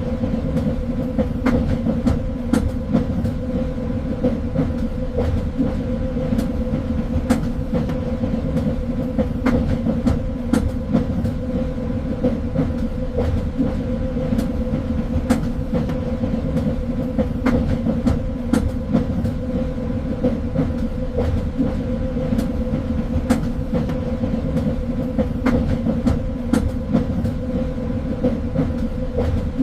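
Train running along the track: a steady low rumble and hum with irregular sharp clicks and knocks from the wheels on the rails.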